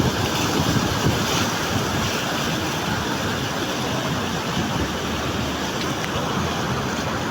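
Swat River's mountain water rushing steadily, with wind buffeting the microphone.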